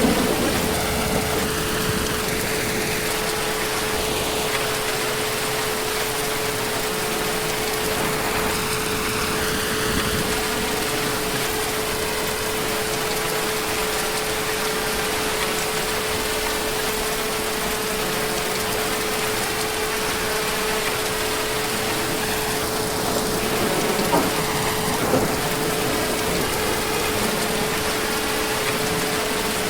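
Heavy rain falling steadily, with a steady humming tone underneath and two sharp ticks a second apart near the end.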